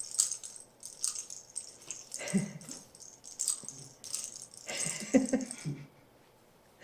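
A toy rattling in irregular bursts as it is grabbed and shaken, with a couple of short low vocal sounds.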